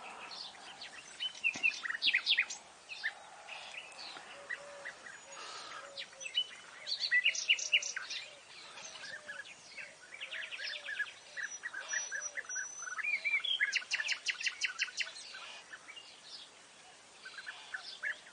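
Several birds calling and singing at once: overlapping high chirps and fast trills of rapidly repeated notes, with softer, lower repeated calls underneath.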